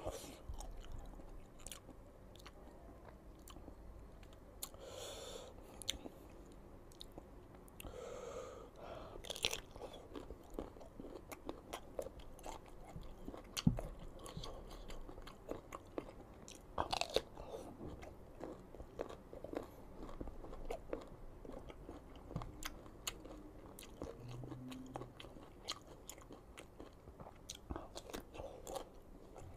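Close-up biting and chewing of crisp raw green mango, with irregular crunches; a few louder crunches come about halfway through.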